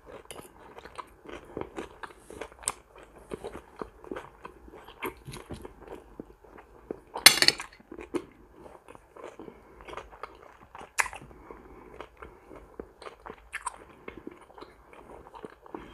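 Close-miked chewing and mouth sounds of a person eating roasted pork and salad, with scattered small clicks of cutlery on the plate; the loudest sharp clack comes about seven seconds in.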